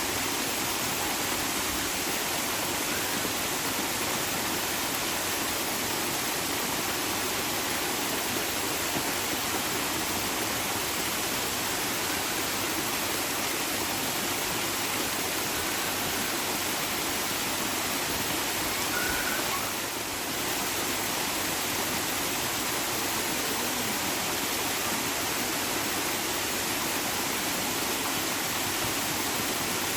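Water running steadily with an even rushing hiss, like a stream or small waterfall.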